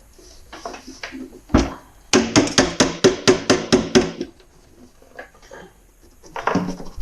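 LiftMaster 1160 garage door opener turned upside down and knocked repeatedly to shake loose plastic dust from its stripped gear: one knock, then about a dozen fast knocks over two seconds with a ringing note, and another knock near the end.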